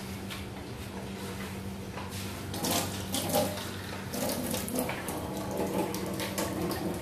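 Pork ribs frying in hot oil in a pan, sizzling while a wooden spatula stirs and scrapes them, with irregular clicks and scrapes against the pan over a steady hum.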